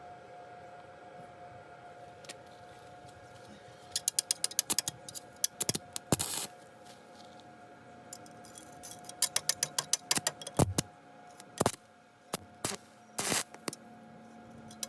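Runs of sharp metallic clicks, with a few short scraping bursts in between, over a faint steady hum.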